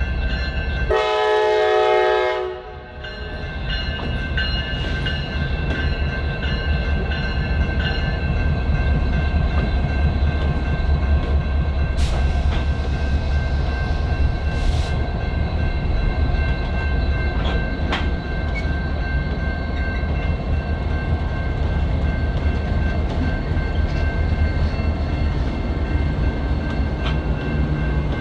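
Freight diesel locomotive horn sounds one blast of about two seconds about a second in, followed by the steady low rumble of diesel locomotive engines running close by, with a few sharp metallic clicks.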